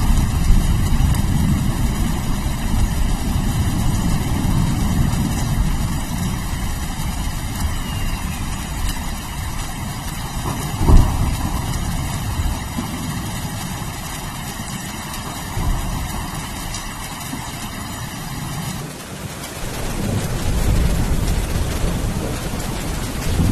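Rain with a long, low rolling rumble of thunder that slowly fades, and one sharp loud crack about eleven seconds in. About nineteen seconds in, the rumble gives way to a steady hiss of rain.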